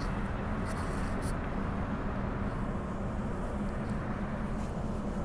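Interior running noise of a Transperth Bombardier B-series electric multiple unit travelling at speed: a steady rumble with a constant low hum and a few faint ticks about a second in.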